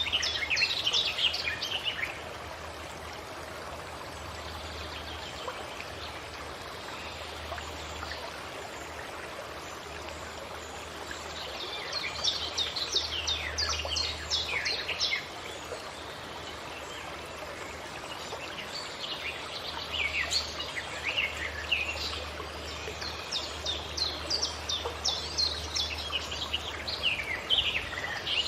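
Forest ambience: songbirds singing in spells of rapid high chirps and trills, at the start, in the middle, and a longer spell through the last third, over a steady even rushing background.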